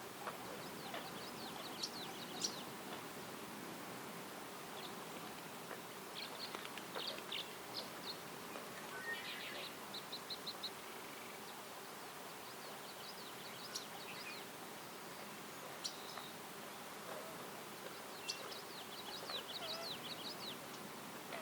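Songbirds calling in woodland: scattered high chirps and short trills, with a quick run of about five notes about ten seconds in and a longer trill near the end, over a steady faint background hiss.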